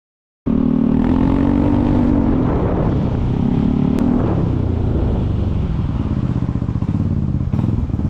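Motor vehicle engine running under way, with road and wind noise as heard while riding. It starts abruptly about half a second in and holds steady, its pitch rising and falling slightly with the revs.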